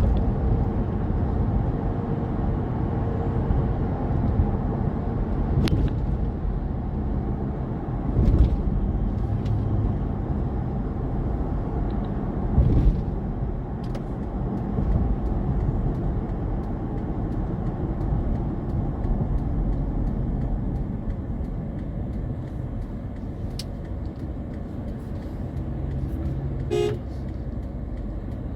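A car driving in strong wind, its road and wind noise a steady low rumble throughout. Near the end there is a single brief horn toot.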